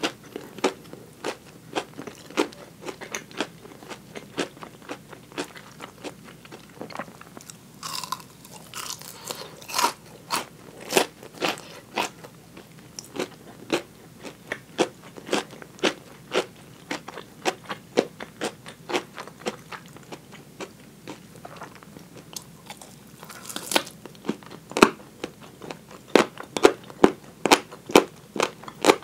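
Close-miked chewing of crispy fried chicken (tulip karaage drumettes): a fast, irregular run of crunches and bites, with a louder, denser run of crunches near the end.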